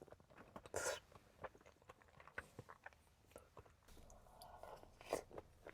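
Faint, close-up chewing and wet mouth sounds of a person eating soft peach cobbler with ice cream: many small clicks and smacks, with a louder, breathier sound about a second in and again near the end.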